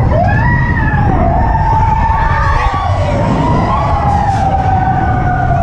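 Mine-train roller coaster cars rumbling along the track, with a long high wail over the rumble that slowly falls in pitch.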